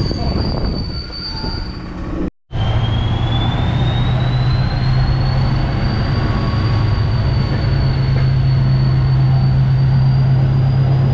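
Passenger train rolling past station platforms, heard close outside the carriage window: steady running noise over a low drone, with a thin high wheel squeal that climbs slightly in pitch and then holds. A brief dropout about two seconds in, where the recording is cut.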